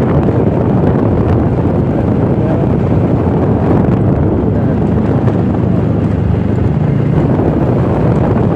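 Motorcycle running steadily on the move, with wind buffeting the microphone.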